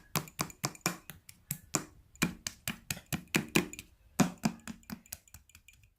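A quick, uneven series of sharp taps, about four a second, growing fainter near the end.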